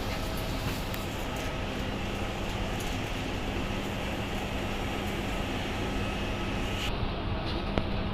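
Steady rumble of a vehicle in motion with a low hum; the higher hiss drops away abruptly about seven seconds in.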